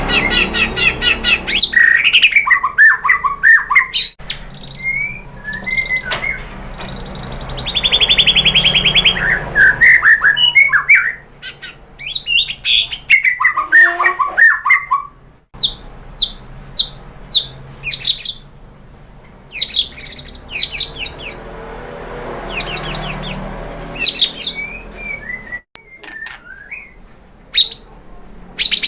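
White-rumped shama (murai batu) singing a varied, loud song of clear whistles, rapid trills and quick falling chirps, in phrases separated by short pauses.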